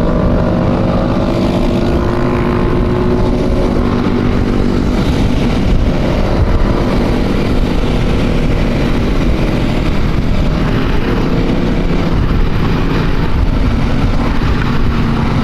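Motorcycle engine running steadily at cruising speed, its pitch drifting a little in the first few seconds, under a constant rush of wind noise from riding.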